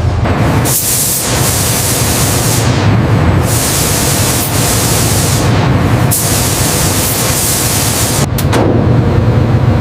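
Loud rushing noise over a steady low rumble, its hiss cutting in and out abruptly several times.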